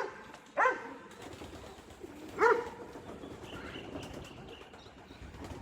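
An animal giving short, arched, yelping calls, the two loudest about half a second and two and a half seconds in, over a steady hiss of rain.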